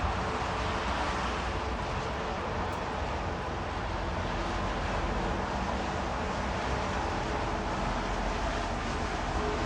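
Steady outdoor background noise with a low rumble underneath.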